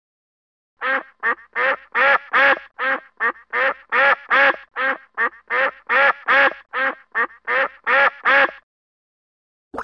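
Domestic goose honking: about twenty short, nasal calls in quick succession, close to three a second, stopping shortly before the end.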